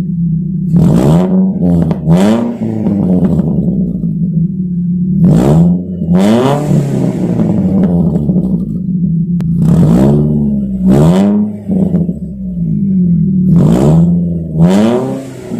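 Small petrol car engine idling through its exhaust and revved with short throttle blips, mostly in quick pairs, the pitch rising and falling back to idle about eight times.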